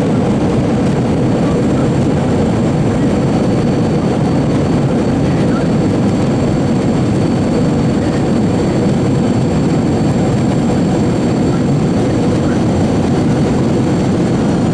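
Boeing 717-200's two Rolls-Royce BR715 turbofan engines running steadily: a deep, even rumble with several steady high whining tones over it.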